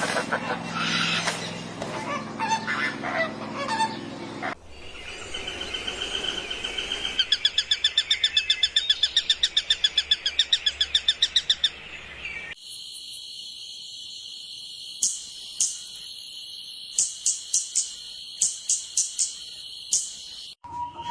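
Birds calling in a string of separate clips: mixed calls at first, then a fast run of repeated high notes at about five a second, then short high chirps spaced out over a steady high tone.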